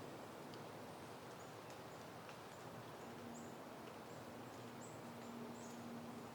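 Soft outdoor wind as a faint steady hiss, with short high chirps scattered through it and a low steady hum coming in about halfway.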